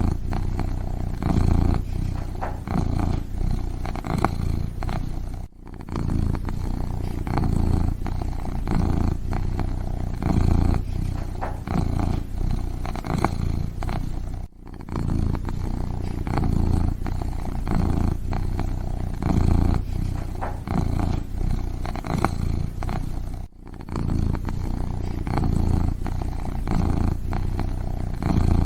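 Kitten purring close to the microphone: a steady low purr that pulses with each breath in and out. It breaks off briefly three times, about every nine seconds.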